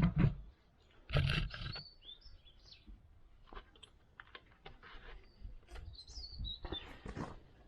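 Scattered clicks and knocks of hand tools and metal parts being handled, loudest about a second in and again near the end, with a few short high chirps in between.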